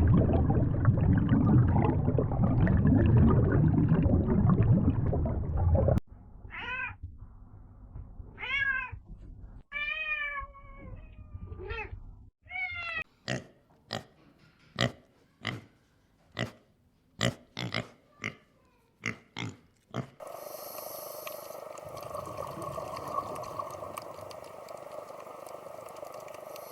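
A domestic cat meowing, five or six separate rising-and-falling meows, preceded by about six seconds of dense low rumbling noise and followed by a run of short sharp calls at about one a second, then a steady hum.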